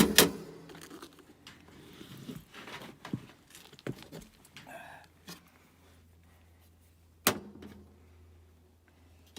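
Hand tools and small metal hardware being handled: a loud sharp click at the start, scattered light clicks and rattles, and another sharp click about seven seconds in, over a faint steady hum.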